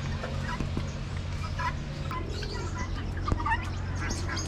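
Chickens clucking, with scattered short bird calls over a steady low hum.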